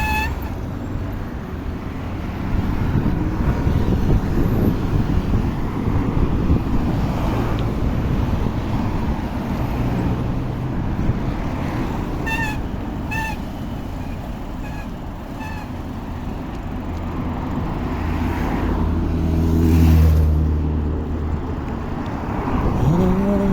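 Road traffic noise heard from a bicycle, with a motor vehicle passing that swells to its loudest near the end and then fades. A few short, high-pitched chirps come about halfway through.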